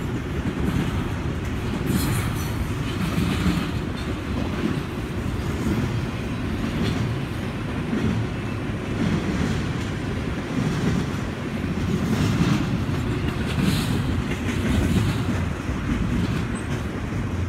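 Double-stack intermodal freight train's loaded well cars rolling past, a steady low rumble with wheels clacking over rail joints now and then.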